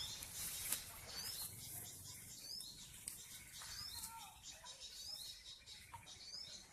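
Small birds chirping: a string of short high chirps, about one or two a second.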